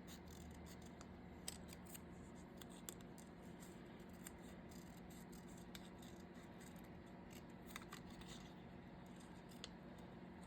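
Small craft scissors snipping a paper sticker: a handful of faint, sharp snips spaced a second or more apart over a low steady hum.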